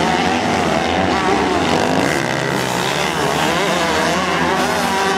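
Several MX2-class motocross bike engines running at once, their pitch rising and falling as the riders work the throttle and overlapping one another.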